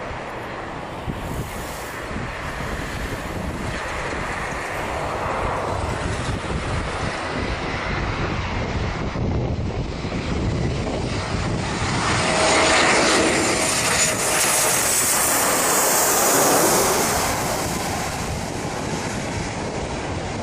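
Fixed-wing aircraft engine noise, a steady rush with a faint high whine, swelling to its loudest about two thirds of the way through and then easing off as the plane passes.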